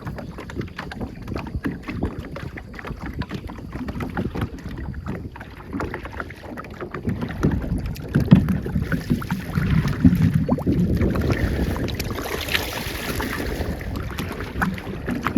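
Wind buffeting the microphone and water rushing past a boat moving on a river, with no steady engine tone. It grows louder about eight seconds in.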